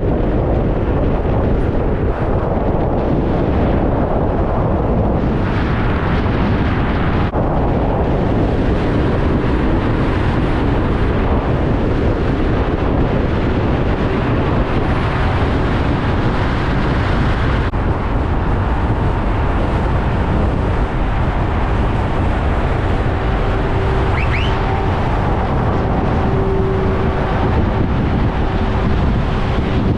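Motorway traffic, trucks and cars, passing in a steady dense roar of engine and tyre noise, with wind buffeting the microphone. A faint steady hum from a passing vehicle rises above it in the last few seconds.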